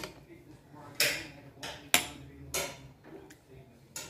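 Metal knife and fork clinking and scraping against a dinner plate while cutting food: about five sharp clinks and scrapes, the sharpest about two seconds in.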